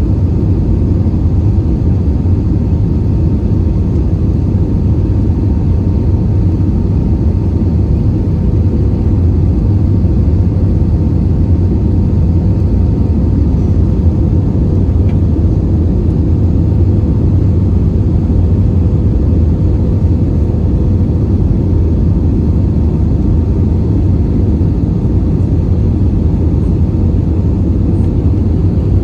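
Airbus A320-232 cabin noise in flight: a loud, steady, deep rumble of its IAE V2500 turbofan engines and the air rushing past the fuselage, with a thin steady hum over it.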